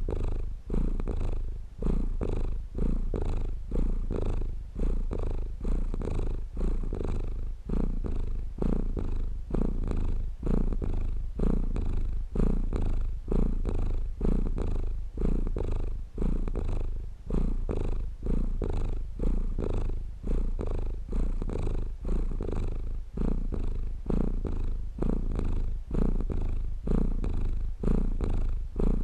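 Domestic cat purring steadily close up, a low rumble that swells and dips evenly a little more than once a second with each breath in and out.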